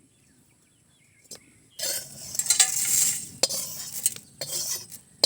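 Metal utensils scraping and clinking against a cooking pot in short bursts, with a few sharp knocks, as freshly roasted whole spices are handled.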